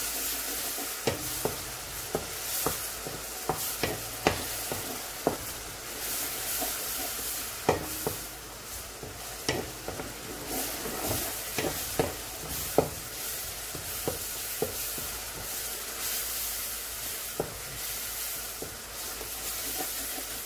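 Onions and garlic paste sizzling in oil in a large metal pot. A wooden spoon stirs them, scraping and knocking against the pot at irregular moments every second or so.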